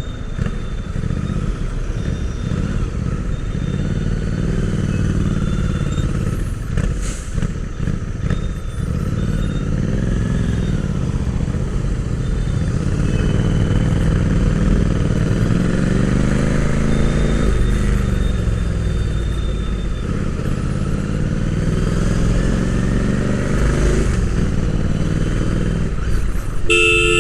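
Royal Enfield Interceptor 650's parallel-twin engine running under way, heard onboard, its revs rising and falling with the throttle. A vehicle horn sounds near the end.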